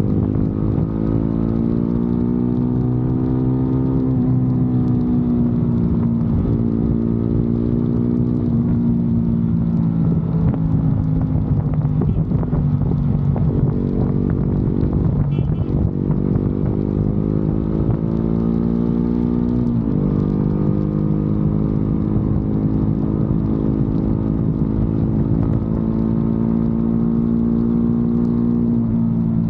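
Motorcycle engine running under way, its pitch rising as it accelerates and falling as it eases off. It drops sharply at gear changes about two-thirds of the way in and near the end, with a rougher, lower stretch in the middle as it slows.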